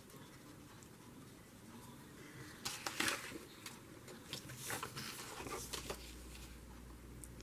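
Felt-tip marker tip stroking and dabbing on shiny, glossy calendar paper, a few faint scratchy strokes in a run through the middle.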